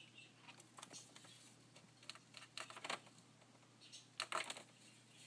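Scattered, irregular faint clicks and taps on computer keyboard keys, coming in small clusters.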